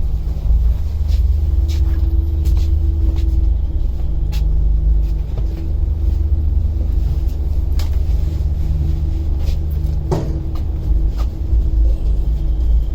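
Steady low rumble of a moving road vehicle heard from inside, with a faint engine hum, scattered rattles and a single louder knock about ten seconds in.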